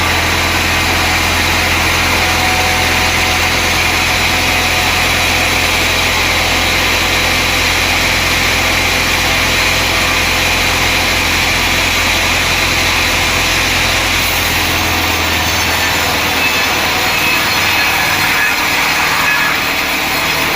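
Sawmill machinery running steadily with a loud, continuous machine noise. A low hum underneath drops away about three-quarters of the way through.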